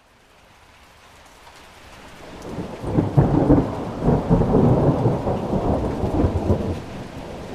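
Steady rain with a long rolling peal of thunder that builds about two seconds in, stays loudest through the middle and eases off near the end.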